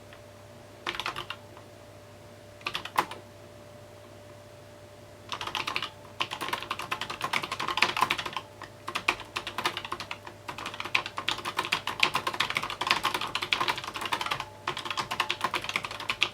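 Typing on a mechanical keyboard: two short bursts of keystrokes, then a long run of fast typing from about five seconds in, broken by a few brief pauses.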